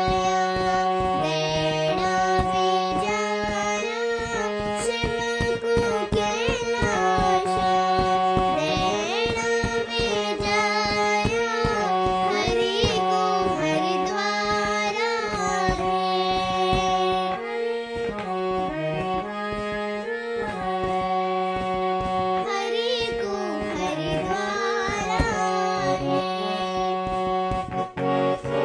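A young girl singing a Garhwali folk-devotional song, accompanied by held reed-instrument chords and a hand drum beating steadily.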